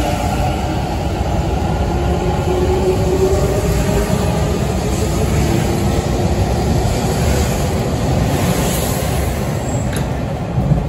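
Hanshin Railway electric train pulling out of a platform and running past at close range, a steady rumble of wheels on rails. A faint whine from its motors rises in pitch as it picks up speed.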